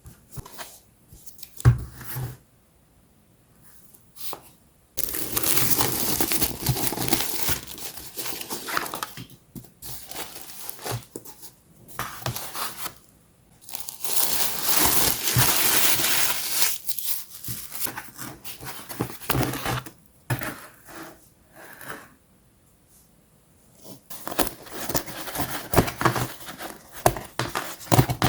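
Packaging of a wooden puzzle kit being torn open and crinkled by hand, in long noisy stretches with pauses between, then a quick run of small clicks and taps near the end.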